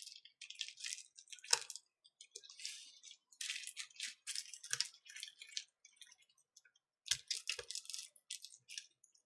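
Faint, scattered clicks and light scraping of small plastic tablet parts being handled during reassembly, with a sharper click about a second and a half in and two soft knocks near the end.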